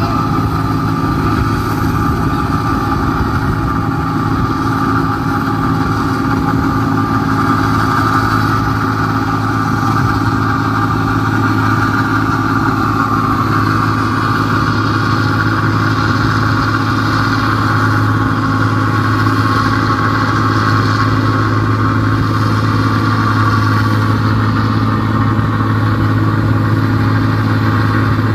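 New Holland 1545-S combine harvester running steadily, its engine and machinery holding an even, loud hum.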